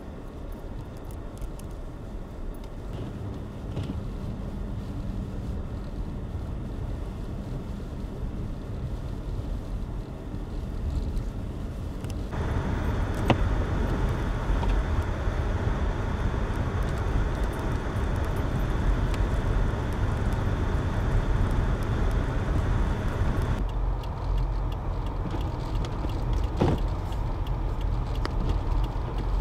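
A car running with a steady rush of road and wind noise. The noise steps suddenly louder about twelve seconds in and drops back about twenty-four seconds in, with a few sharp clicks along the way.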